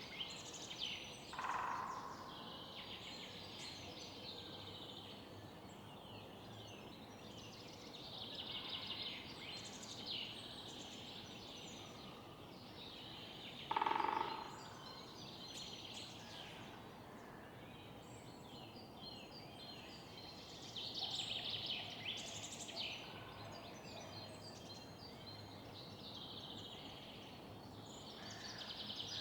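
Several songbirds singing in bursts every few seconds over a steady background hum of the city. A louder, lower single call comes about a second and a half in and again about fourteen seconds in.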